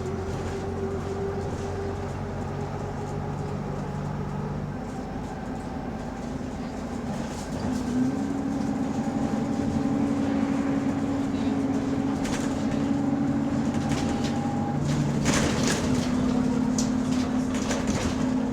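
Bus engine and running gear heard from on board while under way, a steady drone that gets louder about eight seconds in as a new, stronger engine tone sets in. Scattered rattles and knocks come in the later part. The bus has an exhaust leak, which is heard more clearly from outside.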